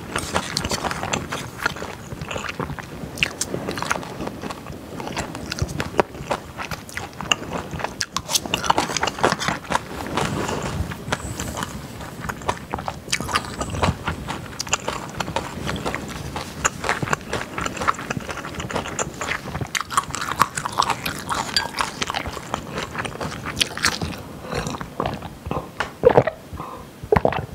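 Close-miked chewing of a mouthful of food: irregular wet clicks and smacks. Near the end a drink is taken from a glass.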